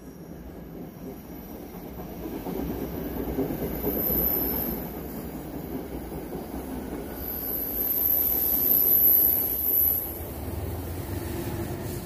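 NJ Transit commuter train rolling past a station platform, its wheels rumbling on the rails and growing louder. High-pitched wheel squeal comes once about four seconds in and again for several seconds from about seven to ten seconds in. The electric locomotive at the rear of the train comes past near the end.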